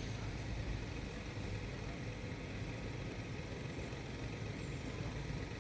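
Steady low rumble of road traffic, with vehicles idling, at a level crossing.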